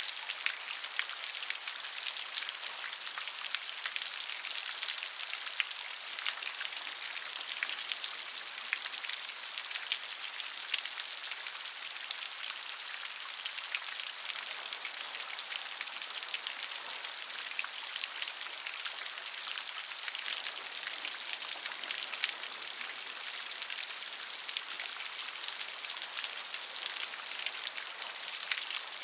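Steady rain falling, a dense patter of many small drop ticks over an even hiss.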